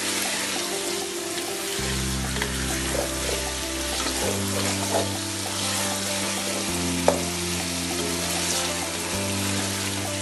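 Chicken pieces sizzling as they fry in oil in a pot, stirred with a wooden spoon that scrapes and clicks against the pan, with one sharp knock about seven seconds in. Soft background music with slow, held chords plays underneath.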